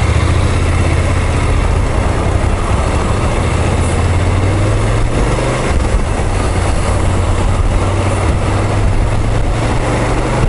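BMW F850GS parallel-twin engine running steadily while the motorcycle accelerates at around 50–60 km/h. This is the speed range where the rider hears a light tappet-like rattle from the engine under throttle, a noise the dealer later judged normal.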